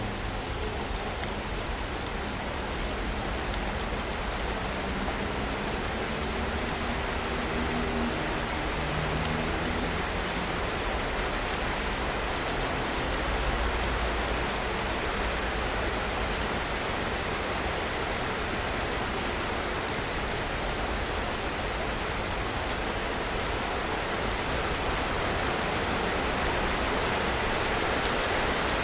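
Steady rain falling and pattering on surfaces in a city, an even hiss with no letup. A faint low hum underneath fades out about ten seconds in.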